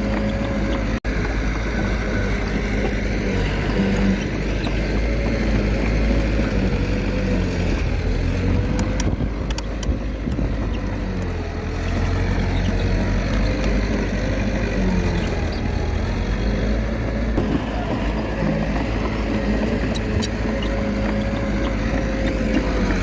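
Diesel engine of a small Komatsu D21A bulldozer working under load, a steady low drone whose pitch rises and dips as the machine pushes fill. There is a brief break in the sound about a second in.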